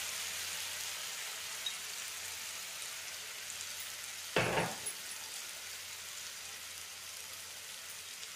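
Onion-garlic paste frying in oil in a steel kadhai on low heat, sizzling steadily. There is one brief knock about four seconds in, as spice powder goes into the pan.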